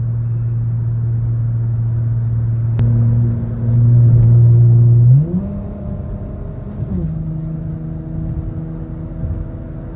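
Car engine droning steadily in the cabin while driving. The pitch steps up about five seconds in as the revs rise and holds there until the end. A single sharp click sounds about three seconds in.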